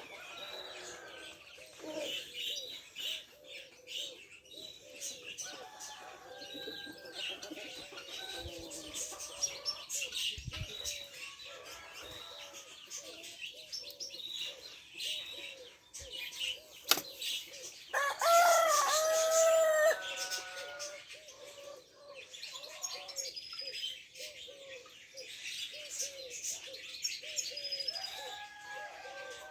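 Domestic pigeons cooing over and over in a loft, with wings flapping and small birds chirping. A rooster crows once, loudly, about 18 seconds in.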